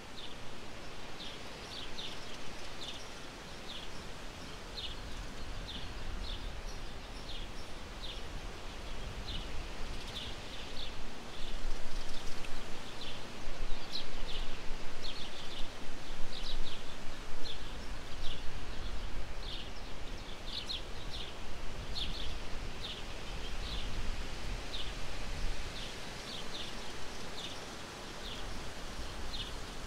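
Outdoor ambience of small birds chirping, short high calls repeating irregularly, over a steady rustling hiss. A low rumble swells through the middle.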